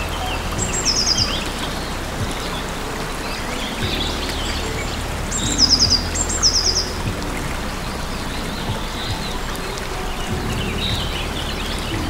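Small songbird singing a short high phrase three times (a single note, then a quick run of notes), with softer chirps from other birds between, over a steady low background rumble.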